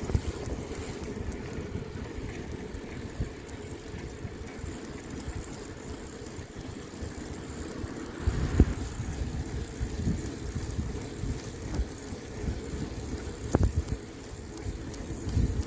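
Wind buffeting the microphone of a camera riding along on a moving bicycle: an uneven low rumble with stronger gusts about eight seconds in and again near the end.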